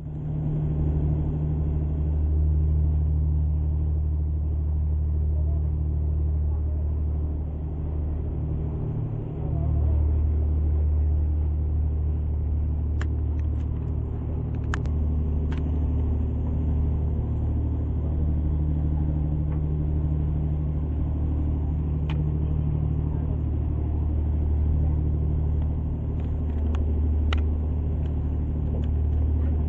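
Tour boat's engine running steadily under way: a constant low drone and rumble, with a few faint clicks.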